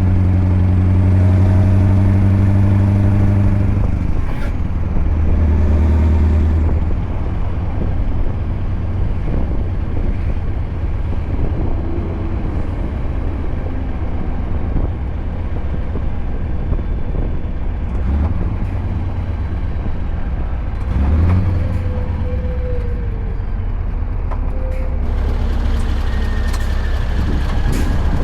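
Scania R580 V8 truck engine running through a straight-piped 8-inch exhaust: a strong, even note for about four seconds, then easing off to a lower, rougher running sound as the truck drives on. Near the end there is a hiss of air.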